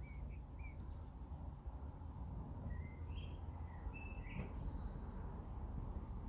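Songbirds chirping in short, separate notes: a few at the start, then a run of chirps between about three and five seconds in, over a steady low rumble.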